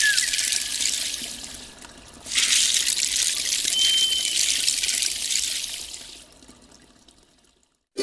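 Running water, a steady hiss-like rush with a short dip about two seconds in. It fades away over the last couple of seconds. A single brief high whistle, like a bird note, sounds about halfway through.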